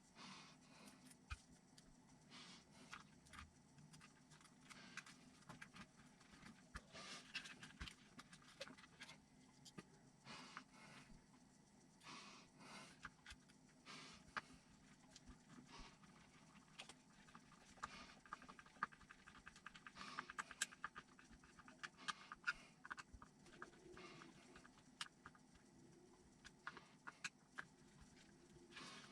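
Faint, scattered clicks and taps of small plastic and metal RC truck parts and hand tools being handled, with a run of rapid small ticks about two-thirds of the way through.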